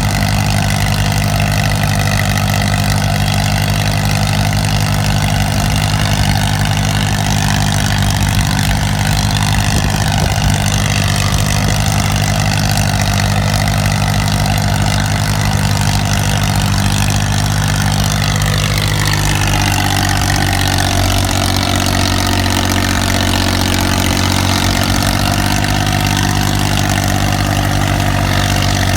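Tractor diesel engine running steadily, its engine note shifting a little about two-thirds of the way through.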